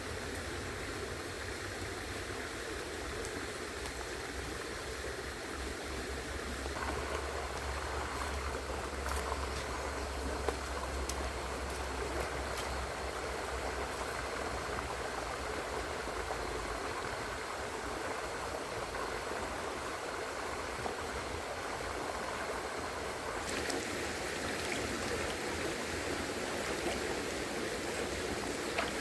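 Small river running over a shallow bed, a steady rush of flowing water whose tone shifts slightly about 7 and 23 seconds in, with a few faint ticks.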